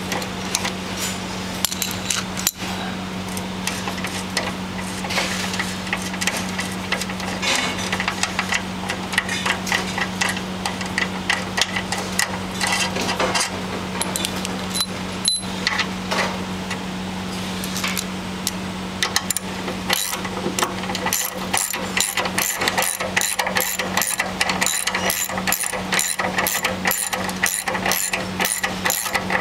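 Hand ratchet wrench backing out a wheel's bolts: irregular metal clicks and rattles, then from about two-thirds of the way in a steady run of evenly spaced ratchet clicks, over a steady low hum.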